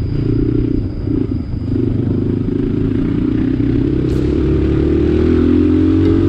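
Dirt bike engine under way, its note choppy as the throttle is worked on and off, then climbing steadily in revs over the last couple of seconds. A single sharp click about four seconds in.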